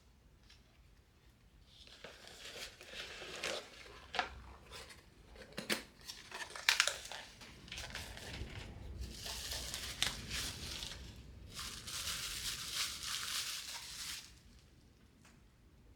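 Close-up handling of something crinkly, rustling and crinkling in several stretches with a few sharp clicks and snips among them.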